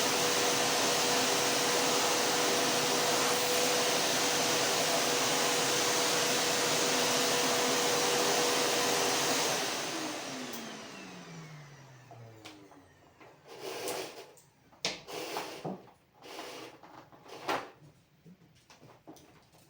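Household vacuum cleaner running with a steady hum, then switched off about halfway through, its motor spinning down with a falling whine. Afterwards a few irregular short knocks and rustles follow, much quieter.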